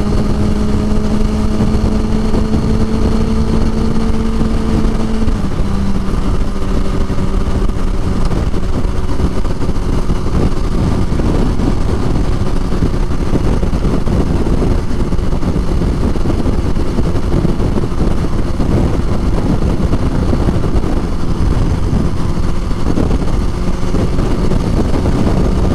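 Motorcycle engine running while riding, with a steady low rumble of road and wind noise. The engine note rises slightly for about five seconds, then steps down and holds steady.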